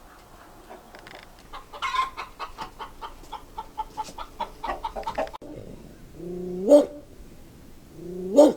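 Chickens clucking in quick short calls for the first five seconds or so. Then a dog gives two short calls that rise in pitch into a loud bark, about a second and a half apart.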